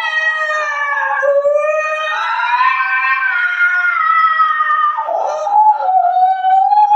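Long, drawn-out howls that slide slowly up and down in pitch, with a brief break about a second in.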